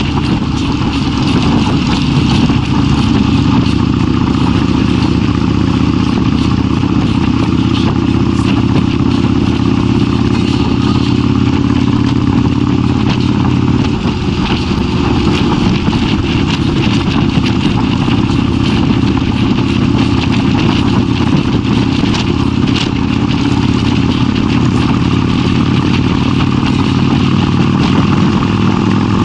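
Kawasaki Vulcan 1600's V-twin engine running steadily while the motorcycle is ridden, with a steady rush of noise over it. The engine note changes slightly about halfway through.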